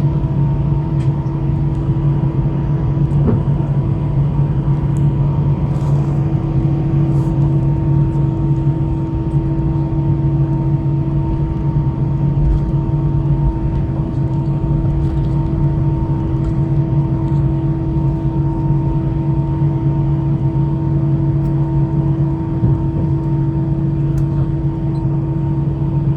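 Steady aircraft cabin drone in an Airbus A319-112, with a constant low hum and a few fainter higher tones that hold level without rising.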